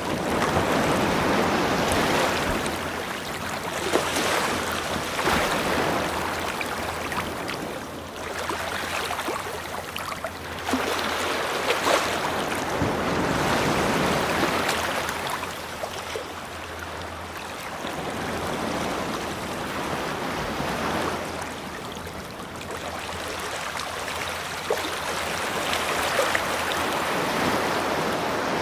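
Ocean waves breaking and washing up a beach, the surf swelling and falling back every few seconds.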